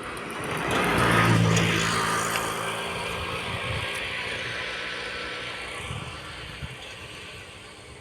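A motor vehicle passes close by: its engine sound swells to a peak about a second in, then slowly fades away.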